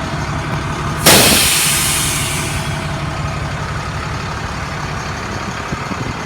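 International DT466 inline-six diesel engine idling steadily. About a second in, a sudden loud hiss starts and fades away over about two seconds.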